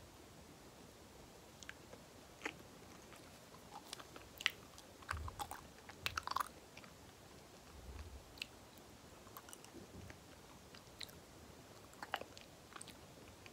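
Close-up chewing of soft banana with sticky, wet mouth clicks and smacks coming irregularly, busiest in the middle.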